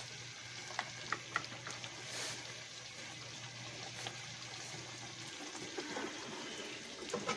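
Chicken heart and onion gravy sizzling and bubbling in a pan as it is stirred, with a few light clicks of the spoon against the pan about a second in.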